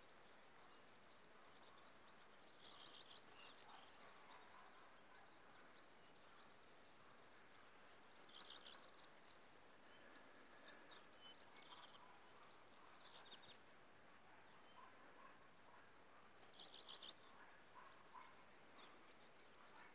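Faint birdsong: short phrases of rapid high chirps every few seconds over a quiet, steady outdoor hiss.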